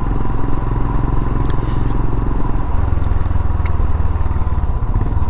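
Royal Enfield Himalayan's single-cylinder engine running on the move, heard through an aftermarket Enfield Precision silencer, with a steady low exhaust beat that gets stronger about halfway through.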